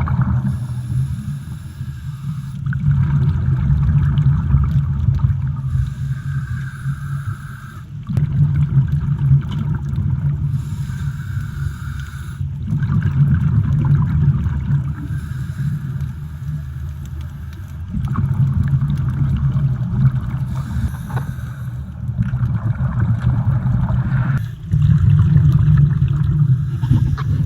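Muffled underwater water noise, a low rumble with some gurgling, in short segments that change abruptly every few seconds.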